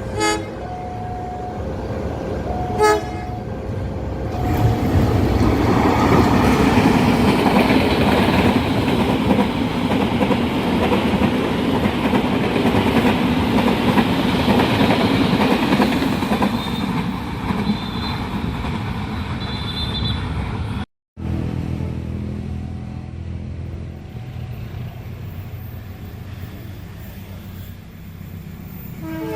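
Train horn giving two short blasts, then a long train passing at speed with a swelling rumble and wheel clatter. About two-thirds in, the sound cuts off abruptly and a quieter, steady low hum follows.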